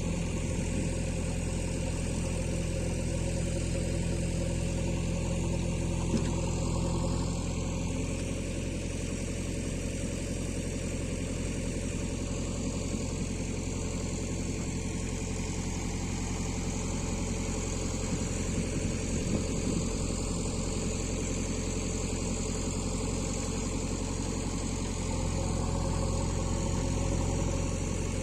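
Sonalika DI-50 tractor's diesel engine running steadily at low revs, a little louder near the end.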